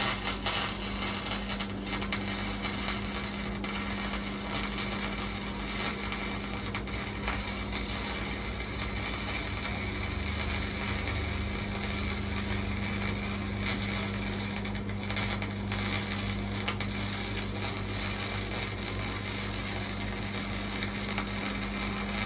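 Welding arc crackling steadily as a bead is laid on the sheet-metal floor of a 1955 Chevy truck, striking up right at the start, with a steady low hum beneath it.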